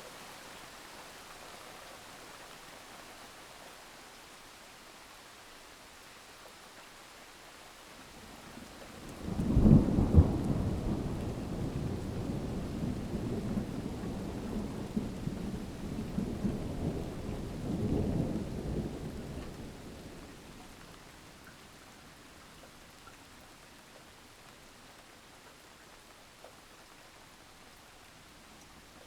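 Steady rain falling, with a thunderclap about nine seconds in that rolls on as low rumbling for about ten seconds, swelling once more before it fades away.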